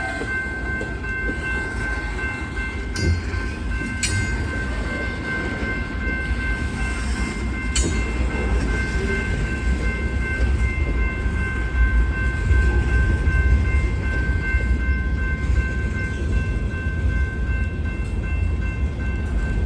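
Freight train cars rolling past with a steady low rumble and a steady high-pitched squeal held over it, with a few sharp clicks from the wheels.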